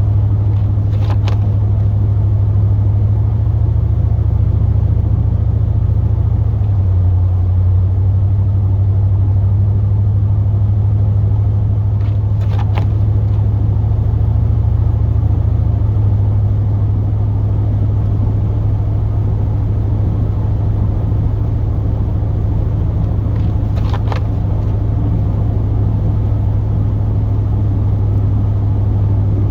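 Chevy Silverado plow truck driving, heard from inside the cab: a steady low engine and road drone, with a faint tick three times at about eleven-second spacing.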